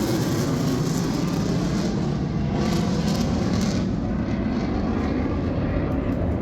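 Steady engine rumble with a rushing noise, with a brief swell of hiss about halfway through.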